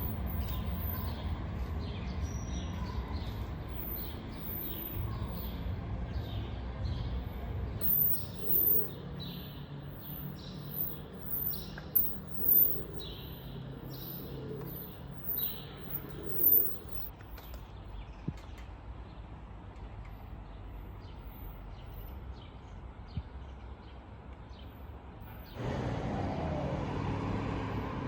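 Small birds chirping in a steady repeated pattern over a low rumble, with a few louder sharp sounds among them. Near the end the sound switches abruptly to a steady rushing noise.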